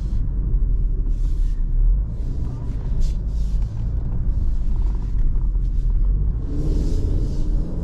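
The Alfa Romeo Giulia Veloce's 2.0-litre turbocharged four-cylinder running at low speed, a steady deep rumble, with short bursts of hiss a few times over it.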